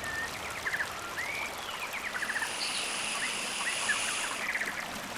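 Birds chirping, with short trills and quick up-and-down calls, over a steady outdoor hiss; a thin high steady whine sounds through the middle.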